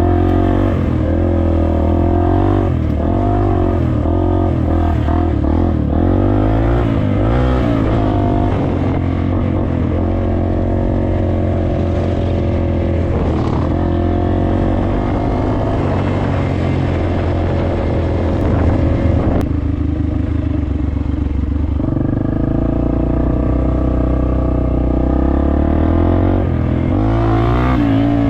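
Dirt bike engine on a trail ride, revving up and down as the rider works the throttle. It eases off for a couple of seconds just past the middle, then pulls again.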